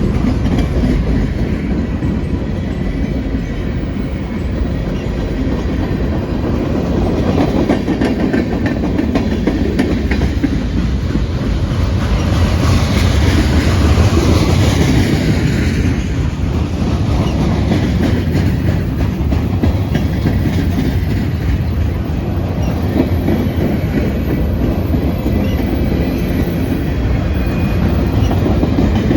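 Freight train cars rolling past close by: a steady heavy rumble of wheels on the rails with clickety-clack over the rail joints, swelling louder for a few seconds about midway.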